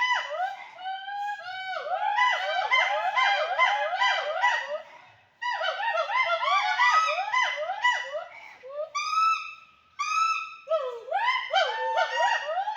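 A loud chorus of wild animal calls: many overlapping whooping notes that each rise and fall in pitch, pausing briefly about five seconds in and again near ten seconds.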